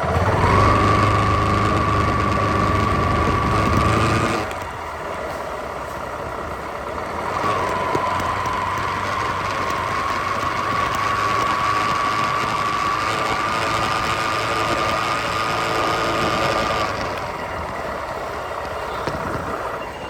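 Motorcycle engine running steadily while riding, with a steady high whine over it. The sound drops sharply about four seconds in. The whine comes back a few seconds later and fades out near the end.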